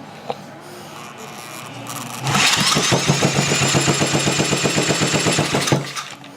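An electric drill spins a rebuilt small engine over on its crankshaft for about three and a half seconds, starting about two seconds in. A steady motor whine runs under rapid, even compression pulses, and it stops abruptly. The engine has good compression: the gauge reads 120 pounds, and the engine sounds like it is exhausting as it turns.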